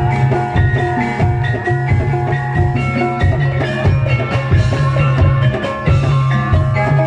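Gamelan-style music accompanying a Barongan dance: ringing metallophone notes over a steady, regular drum beat.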